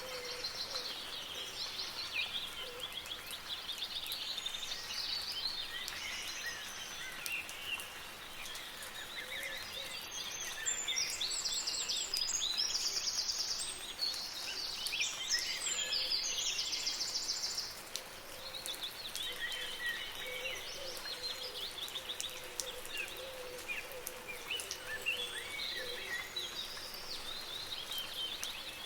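Several songbirds chirping and warbling over the steady patter of soft rain. About a third of the way in, a louder, rapid, high trill runs for several seconds before fading back into the chorus.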